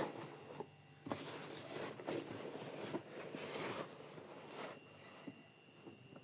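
Rustling and scraping of a boxed kitchen-gadget package being handled, in short irregular noisy bursts that die down after about four and a half seconds.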